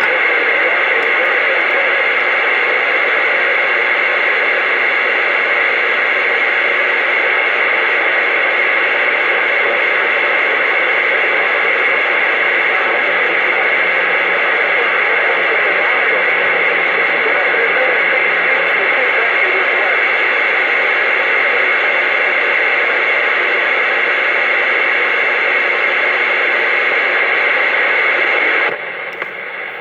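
CB radio receiver putting out steady, loud static hiss with no voice on the channel. The hiss cuts off suddenly about a second before the end.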